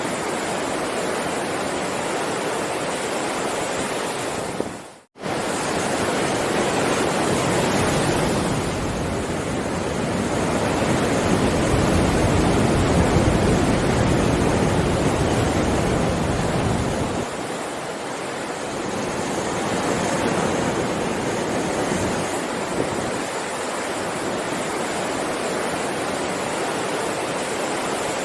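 Heavy ocean surf: a continuous wash of breaking waves, swelling louder and deeper for several seconds in the middle before easing back. The sound cuts out for an instant about five seconds in.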